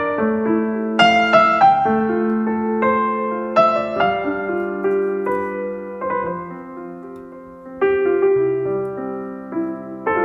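Background music: a gentle piano piece, with notes and chords struck and held, softer for a stretch before a louder chord near the end.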